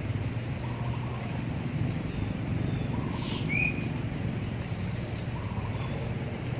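A steady low rushing noise runs underneath, with faint repeated bird or insect calls. Halfway through a bird gives one short, clearer chirp that falls in pitch.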